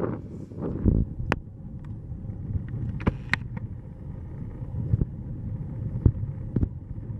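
Wind buffeting the microphone: an uneven low rumble with scattered sharp clicks and knocks.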